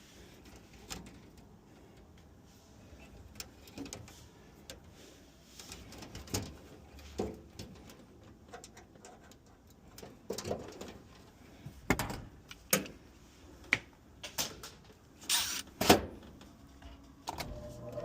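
Scattered knocks and clicks of work being done on a furnace; near the end a steady electric hum starts up, the newly replaced blower motor being switched on to test it.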